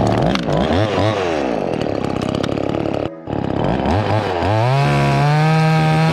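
Two-stroke chainsaw running and revving up and down. It dips briefly about three seconds in, then revs up and holds at high speed near the end.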